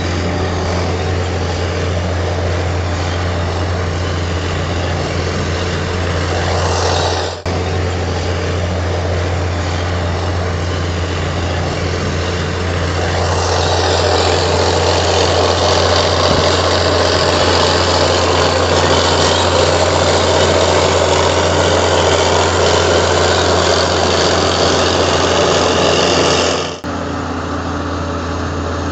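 Komatsu D58 bulldozer's diesel engine running steadily, with a constant low hum, growing louder and busier with working noise about halfway through. The sound drops out abruptly twice, about a quarter of the way in and near the end.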